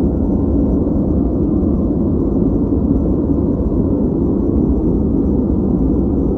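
Steady noise track sold as white noise, running evenly without change. Its energy sits low, giving a deep rushing sound with little hiss on top.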